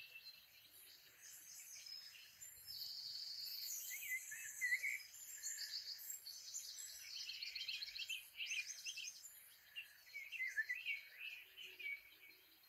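Birds chirping and singing, several calls overlapping, with rapid high trills through the middle stretch and fewer chirps near the end.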